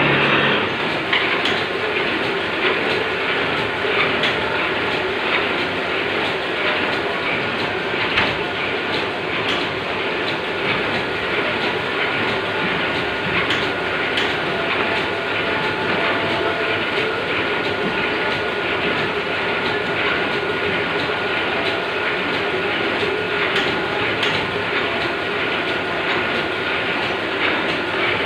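A machine running steadily, giving an even mechanical noise with a faint high whine throughout, and one sharper knock about eight seconds in.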